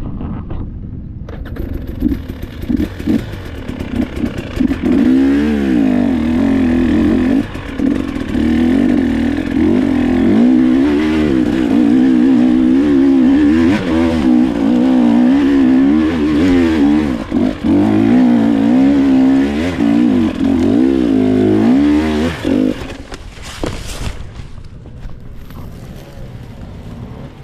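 Dirt bike engine working hard, its note rising and falling again and again as the throttle is worked on and off. About three-quarters of the way through the engine sound drops away to a lower level.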